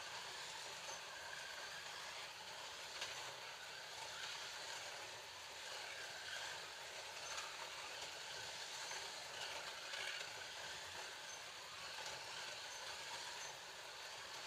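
Several Scalextric slot cars lapping a plastic track: a steady whirring of small electric motors and running cars, with faint swells and a few small ticks.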